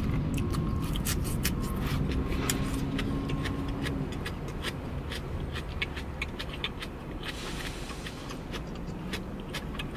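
Close-miked chewing of a mouthful of crisp lettuce salad: irregular wet crunches and mouth clicks, several a second, over the low hum of the car cabin.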